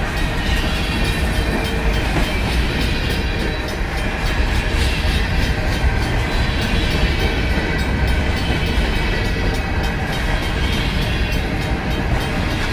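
Freight train covered hopper cars rolling steadily past at close range: a constant low rumble of wheels on rail, with rapid clicking and clatter from wheels, trucks and couplers.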